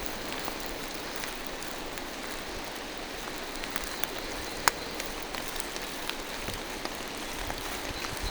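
Steady rain falling through forest trees, an even hiss with scattered drops ticking and one sharper drip about halfway through.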